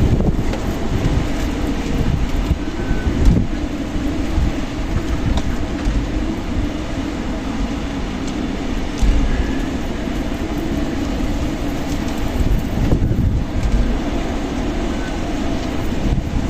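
Strong desert wind blowing steadily in gusts, with a deep rumble of the wind buffeting the microphone.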